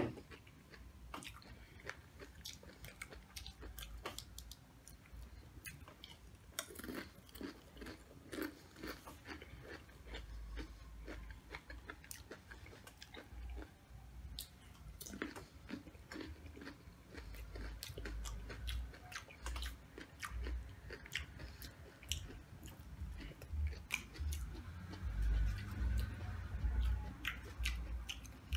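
Close-miked chewing and crunching of Doritos nachos: crisp crackles as the tortilla chips are bitten and chewed, with dull low thumps now and then, strongest toward the end.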